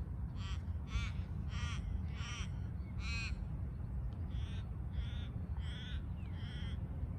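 Ravens calling: about nine harsh caws in two runs, one every half-second or so, over a steady low rumble.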